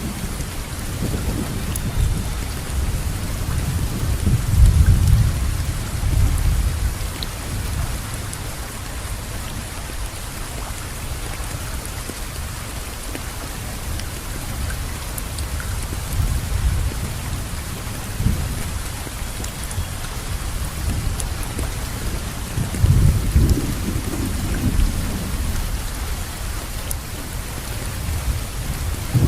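Steady rainfall, with low rolling thunder rumbles swelling about four to six seconds in and again near the end.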